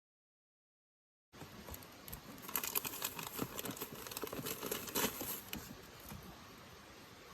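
Dead silence for just over a second, then crinkling and crackling: many quick small ticks for about four seconds that die down near the end.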